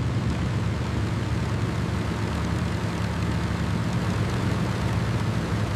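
B-17 Flying Fortress's Wright R-1820 Cyclone radial engines running steadily under power, a deep, even drone with no change in pitch.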